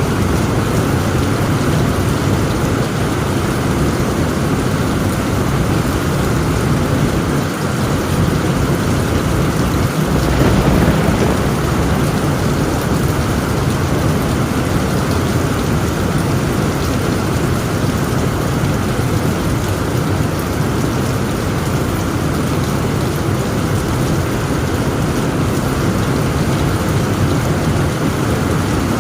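Heavy rain falling steadily on a tent roof, with a low rumble of thunder; the sound swells briefly about ten seconds in.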